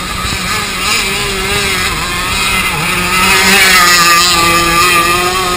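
Radio-controlled model boat's small engine running on the water, its pitch wandering up and down as the throttle changes and growing a little louder past the middle.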